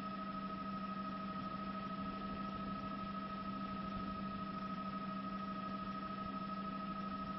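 A steady hum made of a few fixed tones over an even hiss, unchanging throughout.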